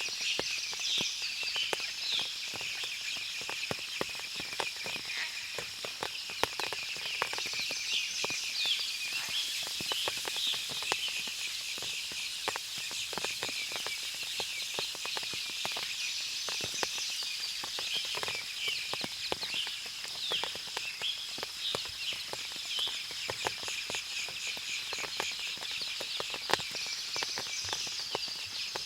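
Forest ambience after rain: many birds chirping and calling, with one louder song phrase coming back about every eight to nine seconds. Underneath are a steady high-pitched drone and frequent small ticks.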